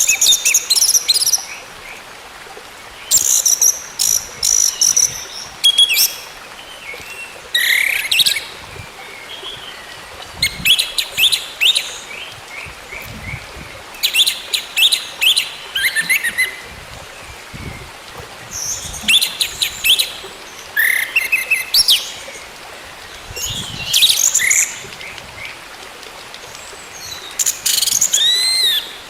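Orange-headed thrush (anis merah) song: about a dozen short, rapid phrases of high whistled and sliding notes, each with a gap after it. It is played as a 'therapy' recording to set off a caged bird that has stopped singing.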